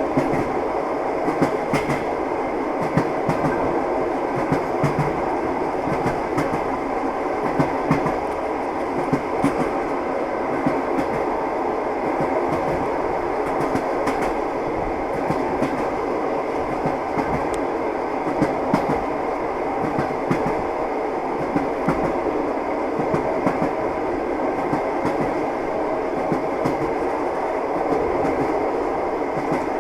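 Train wheels clacking over rail joints over a continuous rolling rumble and rattle, running steadily without a break.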